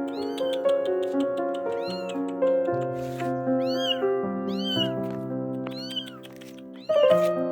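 A cat meowing over and over, a short rising-and-falling call about once a second, over background music with held notes. The music drops out for about a second near the end and then comes back.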